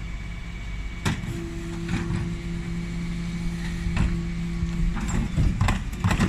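Dennis Elite 6 bin lorry running, with a steady hum that starts about a second in and stops near five seconds, and several clunks and knocks, a cluster of them near the end.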